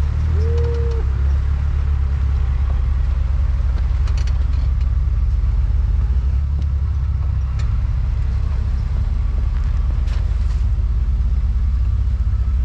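A 4x4 driving slowly on an icy, snowy trail: a steady low engine and road rumble, with a few faint clicks and a short tone about half a second in.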